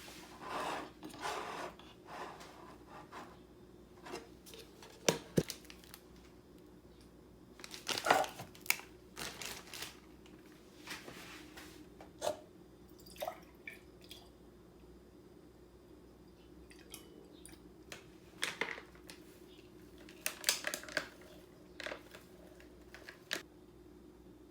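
Scattered handling noises in a small room: short clicks, knocks and rustles every second or two over a low steady hum.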